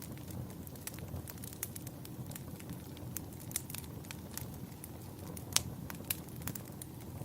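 Campfire burning with a steady low rumble and irregular crackles and pops of burning wood, one sharper snap about five and a half seconds in.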